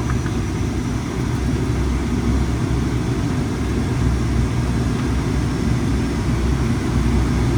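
ATR 72-600's turboprop engines and propellers droning steadily with airflow noise, heard from the cockpit on short final approach just above decision height.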